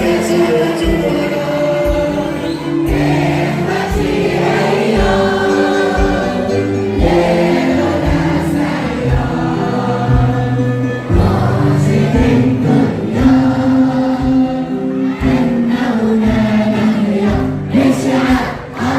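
A youth choir singing together over a musical accompaniment with a steady beat.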